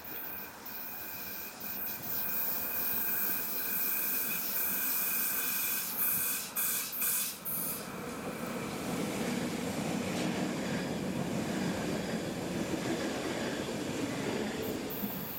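Rhaetian Railway metre-gauge passenger train running in past a station platform. A thin, steady high squeal from the wheels and rails comes first, then from about eight seconds the rumble of wheels on rails grows as the coaches pass close by.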